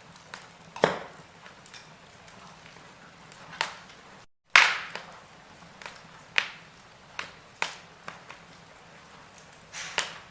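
Wood fire in a fireplace crackling: irregular sharp pops and snaps over a faint steady hiss. The sound drops out for an instant near the middle, and the loudest pop comes right after.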